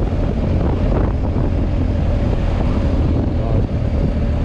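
Steady wind buffeting the microphone while a vehicle engine runs underneath, as on a moving motorcycle.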